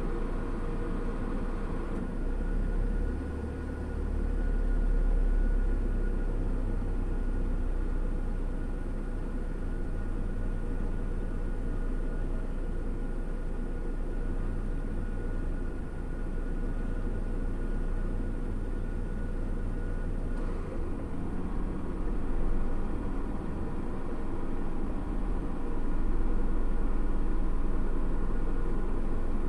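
Car engine idling with the air-conditioning running, heard from inside the cabin: a steady low rumble and hum.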